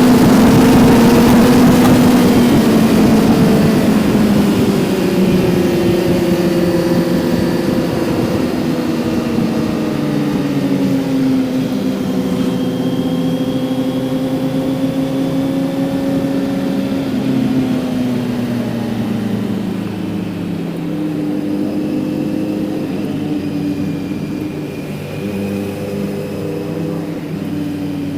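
Kawasaki Z900's inline-four engine running under way, its note easing down in pitch over the first dozen seconds as the revs drop, then holding fairly steady with small rises and dips. Wind rush is strong at first and fades as the bike slows.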